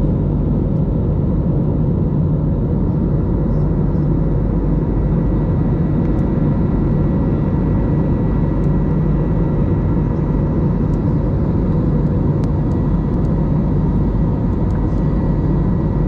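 Steady cabin drone of an Airbus A321neo jet airliner, engine and airflow noise heard from inside the cabin, with a faint steady whine above it.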